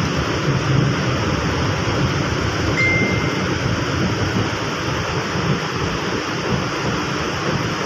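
MRT-3 light-rail train running, a steady rumble and rush heard from inside the passenger car, with a brief high steady tone about three seconds in.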